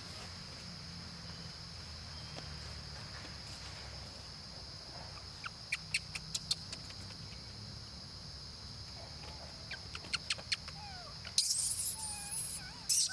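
Steady, high-pitched drone of insects over a low rumble. A quick run of sharp clicks comes about halfway through, and near the end there are short squeaky gliding calls and a louder burst of hiss.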